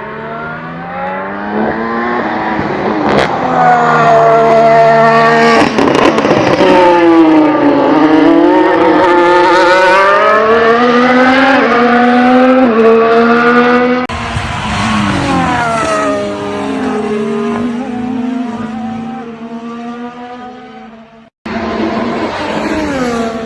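Red Bull RB18 Formula 1 car's 1.6-litre turbocharged V6 running at high revs, its pitch climbing and dropping again and again through gear changes. About two-thirds of the way through the sound changes and the pitch falls away as the car slows, then after a brief break the engine is heard again near the end.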